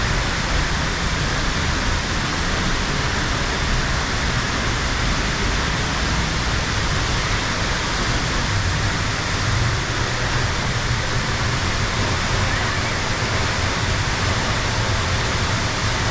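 South Falls waterfall: a steady, loud rush of falling water, heard up close from behind the falls.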